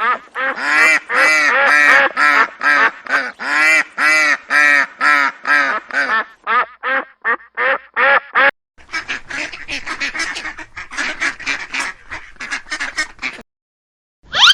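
Duck quacking in a rapid series of loud calls, two to three a second. From about nine seconds in a quieter, faster and busier run of quacking follows, stopping about a second before the end, where a brief rising glide begins.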